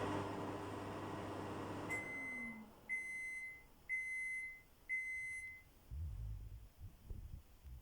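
Samsung built-in oven-microwave running with a steady hum that stops about two seconds in as the cycle ends, its motor winding down. Then it beeps four times, about a second apart, to signal the end of the cycle. A few low thumps follow near the end.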